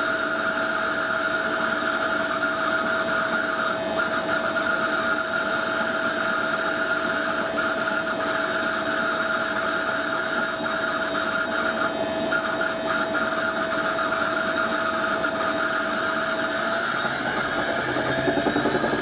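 Hoover A3060 Electronic 1100 top-loading-era front-loader washing machine spinning at high speed, a steady high whine over the drum and motor noise that the owner puts down to dry motor bearings screeching. Near the end the pitch starts to shift as the spin speed changes.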